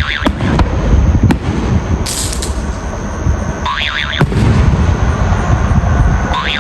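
Fireworks going off: sharp bangs and pops over a steady low rumble, with a brief hiss about two seconds in. A short rising, warbling whistle comes back about every three to four seconds.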